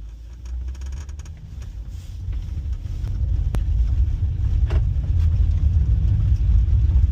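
Vehicle rumble, engine and road noise, growing steadily louder as the vehicle gathers speed, with a few faint clicks.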